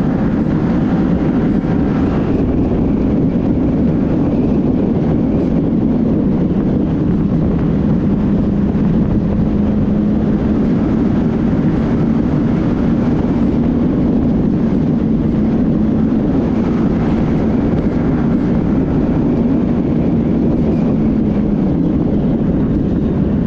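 Yamaha R15M motorcycle's 155 cc single-cylinder engine running at a steady speed, with a steady rush of wind and road noise.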